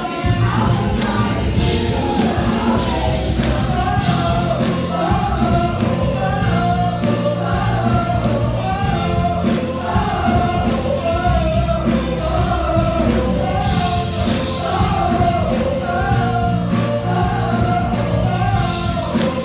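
Gospel music: voices singing together over a band with a steady beat.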